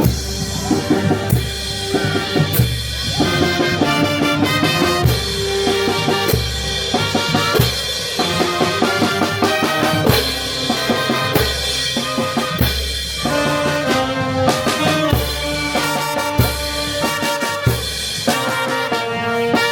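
Peruvian brass band playing: trumpets and other brass carry the melody over a steady bass drum and percussion beat.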